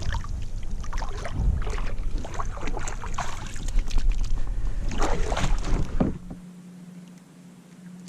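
Splashing, water sloshing and knocks at the side of a fishing kayak as a sea trout is released, with wind rumbling on the microphone. About six seconds in it drops suddenly to a faint steady hum.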